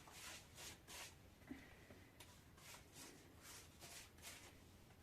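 Near silence, with faint, irregular rustling strokes several times a second.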